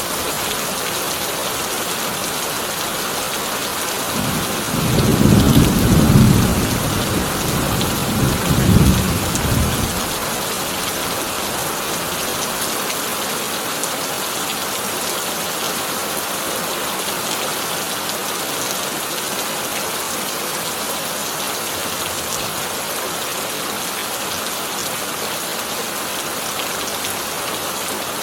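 Heavy rain beating steadily on a corrugated tin roof. About four seconds in, a roll of thunder rumbles for some six seconds, swelling twice before it fades.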